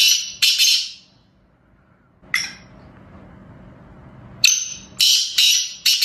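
A bird squawking: about seven short, harsh, high-pitched calls, a pair at the start, one alone a little after two seconds, then four in quick succession near the end.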